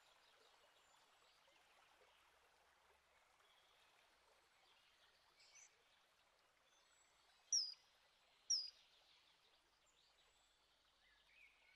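Two short, sharp, high-pitched bird calls about a second apart, over a faint steady hiss of outdoor ambience.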